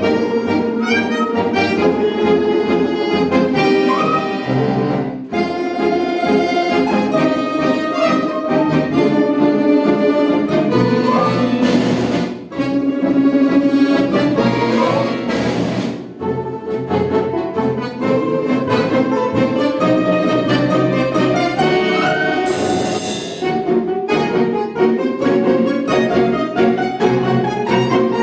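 A folk-instrument orchestra with bayans and accordions playing a lively concert piece in full ensemble, with a few noisy crashes near the middle and again later.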